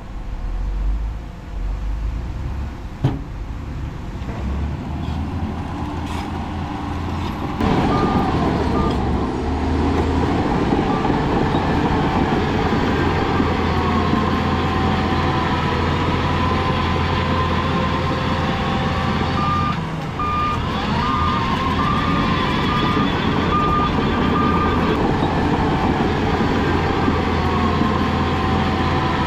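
Heavy diesel earthmoving machinery running, getting louder about eight seconds in. A reversing alarm sounds a row of short, even beeps about two-thirds of the way through.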